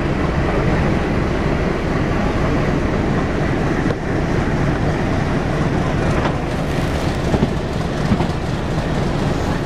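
Two trains running side by side, heard from aboard one of them: a steady rumble of wheels on rail and diesel engine from the broad gauge ALCO-type locomotive and coaches alongside, with a few sharp clacks over rail joints in the second half.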